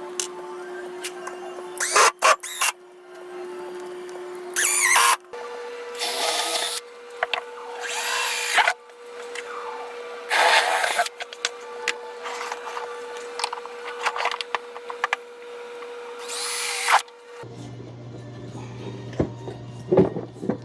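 A power drill running in about six short bursts, its pitch rising and falling within each burst, as screws are driven to fasten a board; a steady background music bed plays under it.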